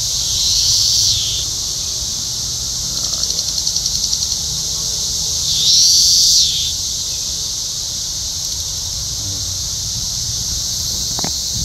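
A chorus of cicadas making a steady, high-pitched drone. Two nearer cicadas call louder, each for about a second and dropping in pitch at the end, one at the start and one about halfway through, with a pulsing buzz between them.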